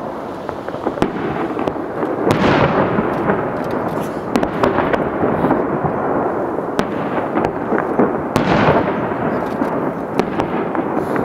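Aerial fireworks going off: a steady rapid crackling of many small bursts, with two heavy booms, one about two seconds in and one near the end, each dying away.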